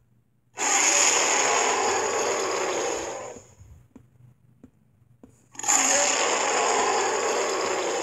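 Two long, raspy roars of an animated Allosaurus (the Sharptooth), each about three seconds, with a short pause between them.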